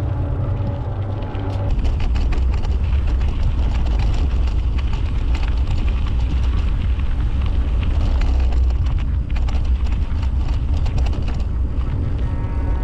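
Mountain bike riding fast over a rough, rocky trail: heavy wind rumble on the microphone and a constant rattle and clatter of the bike over the ground, picking up about a second and a half in after a short steady hum.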